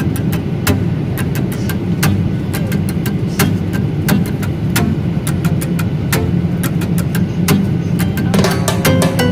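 Steady low rumble of a moving vehicle heard from inside, with frequent irregular clicks and rattles; music starts near the end.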